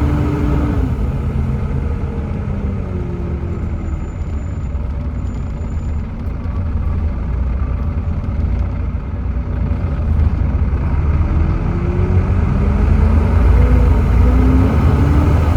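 Volvo B7TL double-decker bus with its Volvo D7C 7.3-litre diesel and ZF Ecomat automatic gearbox on the move. The engine note falls as the bus eases off, runs low through the middle, then climbs steadily from about ten seconds in as the bus accelerates.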